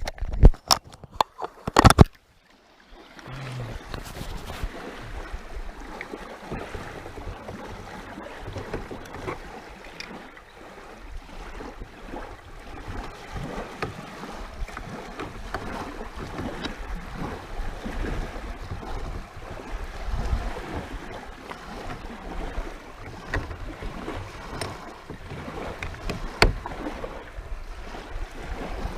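Water splashing and sloshing around a kayak on a lake, with several loud knocks in the first two seconds.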